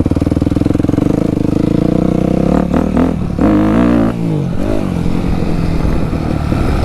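Dirt bike engine running, steady at first, then revving up and down for a couple of seconds about halfway through before settling into a rougher, uneven run.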